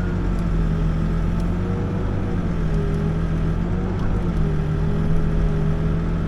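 Backhoe's diesel engine running steadily as it digs, its note wavering slightly as the hydraulics take load.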